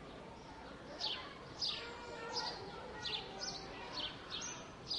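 A bird calling in quick, short, high chirps that each fall in pitch, roughly two a second, starting about a second in. Under it is a faint murmur of distant voices and city background.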